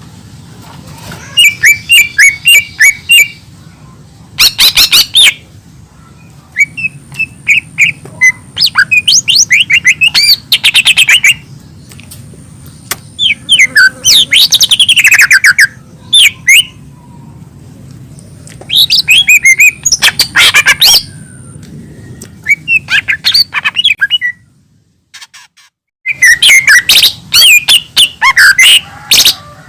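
Cucak ijo mini (leafbird) singing loud, rapid phrases of sharp chirps and sweeping whistles, several phrases with short pauses between them. The song and background drop out for about a second and a half near the end, then resume.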